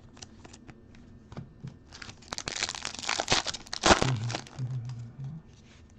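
A plastic trading-card pack wrapper being torn open and crinkled: a few light clicks at first, then about two seconds of crinkling and tearing, ending in a sharp snap.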